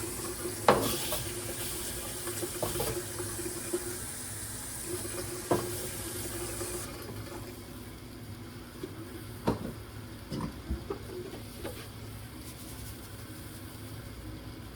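Water running from a tap into a sink, shut off about seven seconds in, with several sharp knocks and clatters of things being handled.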